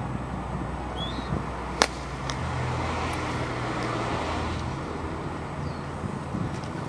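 A single sharp crack about two seconds in: a golf club striking a target bird golf ball, a golf ball fitted with a shuttlecock-like plastic skirt, off the tee mat. A low steady wind rumble runs underneath, and a bird gives a short rising chirp about a second in.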